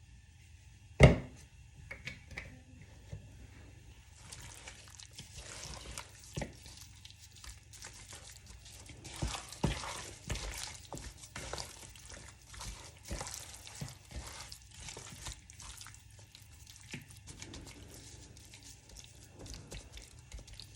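A single sharp knock, then water running and splashing into a kitchen sink, with small clicks and knocks through it, easing off near the end.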